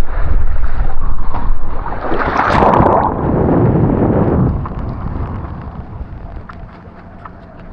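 Wind buffeting the microphone in a loud, gusty rumble. It carries a brief rushing hiss about two and a half seconds in, then eases off to a weaker rumble.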